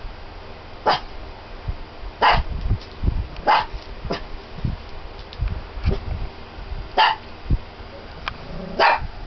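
A dog barking in sharp single barks, about six of them at irregular gaps, with low thumps in between.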